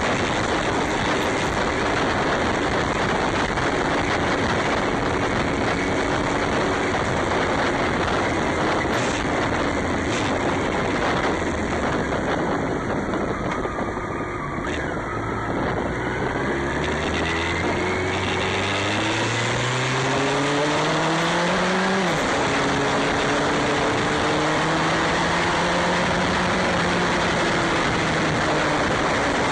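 Motorcycle engine accelerating, its pitch climbing steadily through a gear and then dropping sharply at a gear change about two-thirds of the way through, under a steady rushing noise.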